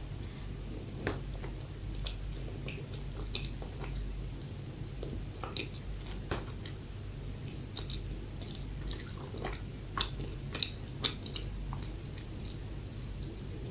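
Close-miked chewing of soft bread: moist mouth clicks and smacks, scattered and gentle, coming thicker and louder near the end.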